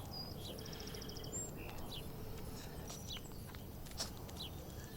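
Birds chirping faintly: a quick trill of about ten high notes about half a second in, then scattered short whistles and down-slurred chirps, with a single sharp click near the end, over steady low background noise.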